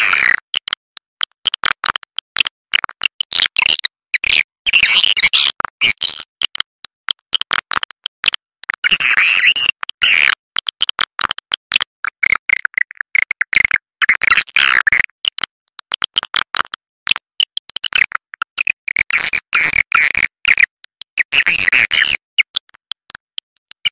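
Swiftlet calling-sound track: dense, rapid, high-pitched swiftlet chirping and twittering in choppy bursts of a second or two with brief gaps. It is the recorded call played to lure swiftlets into a nest house.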